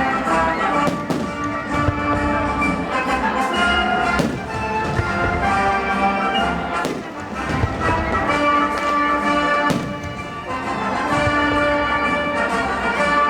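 Music playing over a fireworks display, with several sharp fireworks bangs going off through it.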